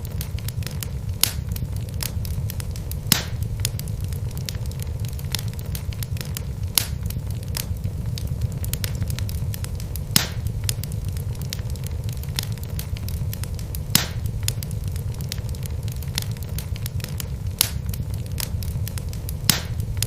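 Wood fire burning in a fireplace: a steady low rumble of flames under constant small crackles, with louder sharp pops from the logs every few seconds.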